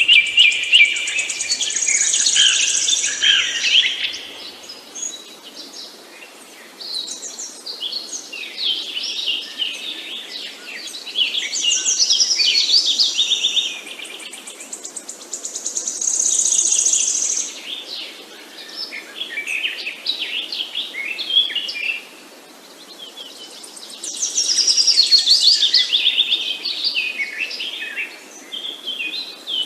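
Several songbirds singing: fast, high twittering song phrases that come in loud stretches every few seconds, over a steady background hiss.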